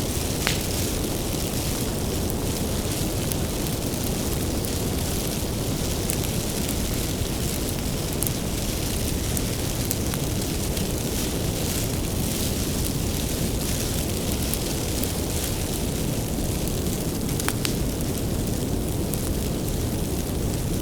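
Wood fire burning: a steady low rumble with occasional sharp crackles and pops.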